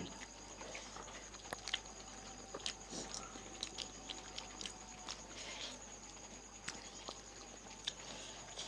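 Fuchka being eaten: crisp puri shells cracking and being chewed, heard as scattered faint sharp crunches.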